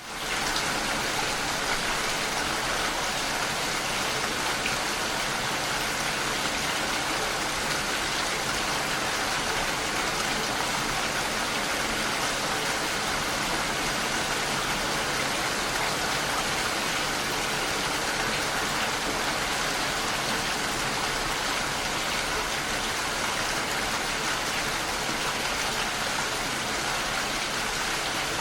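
Steady heavy rain, an even hiss, fading in from silence in the first half-second.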